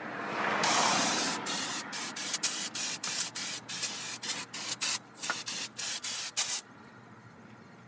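Aerosol brake cleaner spraying onto a carburetor: a continuous hiss, then many short bursts. The spray stops suddenly about a second before the end.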